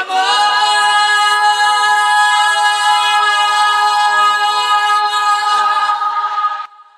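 Isolated male lead vocal holding one long final note at a steady pitch. The note cuts off near the end, leaving a short reverb tail.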